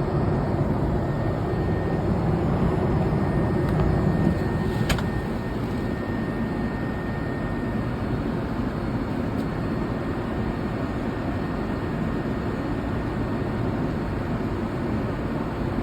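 Steady cabin noise inside a Boeing 787 Dreamliner in flight: an even rush of airflow and engine noise, strongest in the low range. There is a faint click about five seconds in, after which the noise is slightly quieter.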